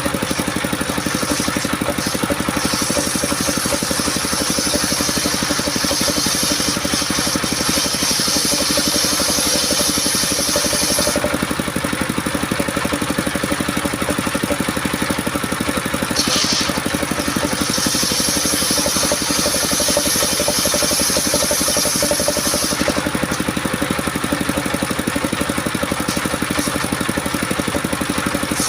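Engine-driven circular sawmill running steadily. A high hiss comes in as the blade cuts coconut wood: about eight seconds from a few seconds in, about five seconds past the middle, and again near the end.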